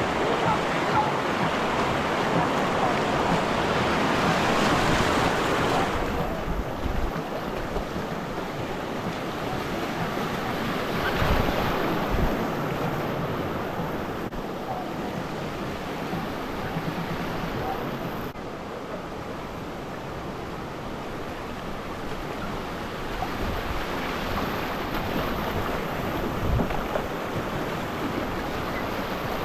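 River water rushing and splashing around a raft, louder for the first few seconds and then settling, with wind buffeting the microphone.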